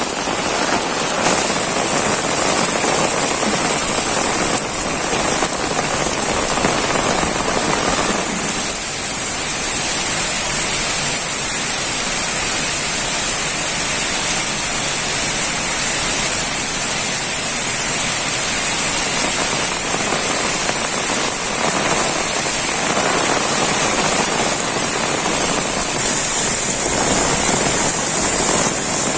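Heavy rain falling steadily, a dense even hiss of drops; the deeper part of the sound eases a little about a third of the way in.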